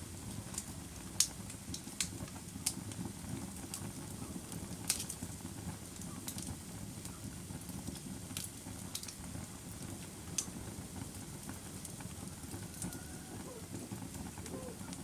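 Wood fire burning: a steady low rumble of flames with irregular sharp crackles and pops, a few louder ones scattered through.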